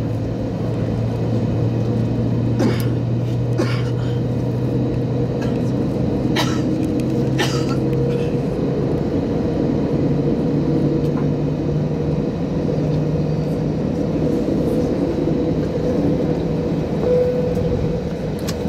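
Airbus A321 jet engines running after start: a steady rumble with a low hum that steps up in pitch about eight seconds in. A few short clicks or knocks come in the first half.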